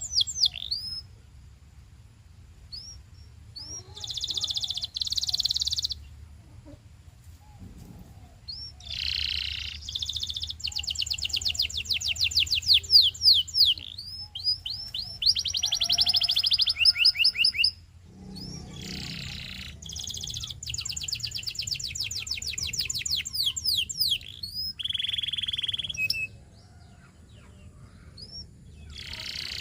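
Domestic canary singing: phrases of fast, high trills of rapidly repeated notes, some lasting several seconds, broken by short pauses, over a faint low hum.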